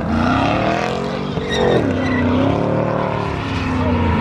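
Car engine revving hard, its pitch rising and falling several times, with tyres screeching as the car spins donuts.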